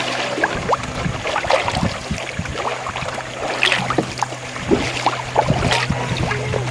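Water splashing and dripping around a canoe, with scattered short clicks and knocks. A steady low hum runs underneath.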